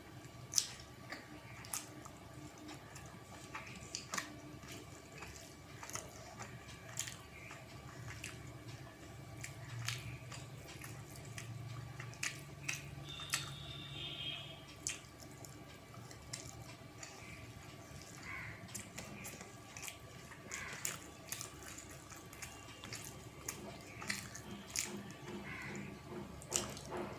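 Person eating rice and rui fish curry by hand: scattered wet clicks and smacks of mixing and chewing, with a faint steady hum underneath.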